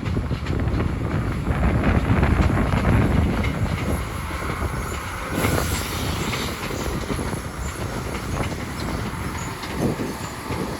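Class 171 Turbostar diesel multiple unit pulling out of the station, its underfloor diesel engines running under power, with wheel and rail noise. It is loudest in the first few seconds and eases after about four seconds as it draws away.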